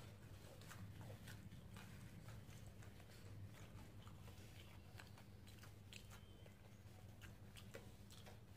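Faint chewing and small mouth clicks of someone eating rice and fried potatoes by hand, scattered irregularly.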